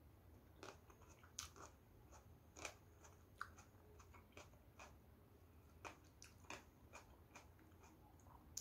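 Faint chewing mouth sounds: a scattered run of soft wet clicks and smacks as a mouthful of food is chewed.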